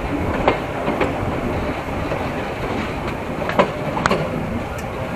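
Passenger train running along the track: a steady rumble from the wheels, broken by sharp clacks from the rail joints that come in pairs about half a second apart, the loudest about three and a half seconds in.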